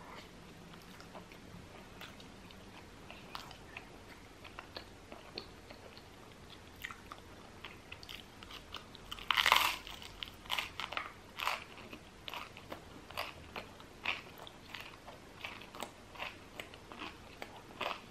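Close-miked eating of cheese and crusty baguette: scattered small mouth clicks, one loud crunchy bite about nine seconds in, then steady chewing with short wet clicks.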